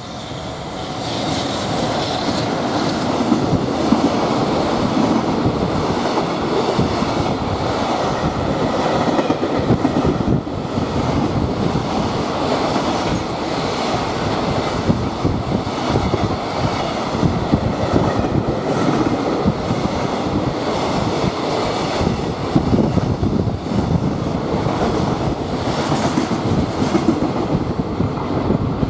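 Freight train running past, its wagon wheels clattering over the rail joints in a steady clickety-clack. The sound builds up in the first second or two, then stays loud.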